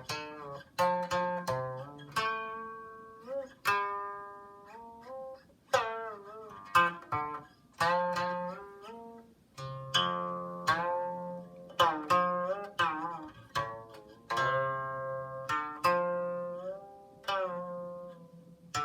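Solo Chinese zither playing plucked notes that ring and decay, many bent with slides and wavering vibrato after the pluck, in a slow flowing melody.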